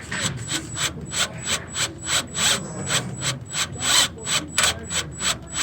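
Drill turning a left-handed bit against a seized EGR bolt, with a regular ratcheting click about three times a second as the bit fails to bite.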